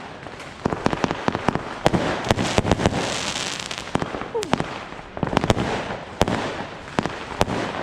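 New Year's Eve fireworks and firecrackers: a rapid, irregular string of sharp bangs, with a hissing crackle swelling up about three seconds in.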